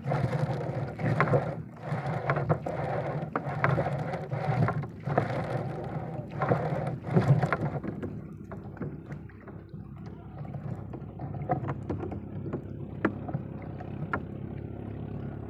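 Small boat's engine running steadily, with rough splashing and knocking noise over the first half that dies down about eight seconds in.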